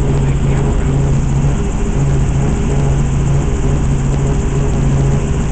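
Helicopter in flight: a steady, loud drone of engine and rotor with a low hum that wavers in and out.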